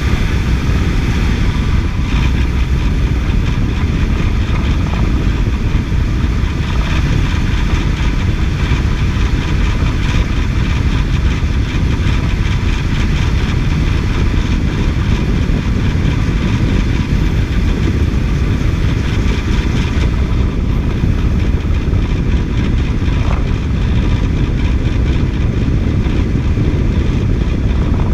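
2006 Toyota engine idling steadily, recorded close up, with an unidentified noise whose source the owner is trying to track down.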